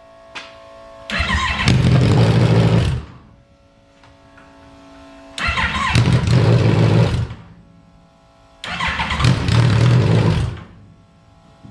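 Motorcycle engine in a car catching and running loudly three times, each for about two seconds, then dying away: it won't stay running, a fault later traced to an upside-down tip-over sensor cutting the engine.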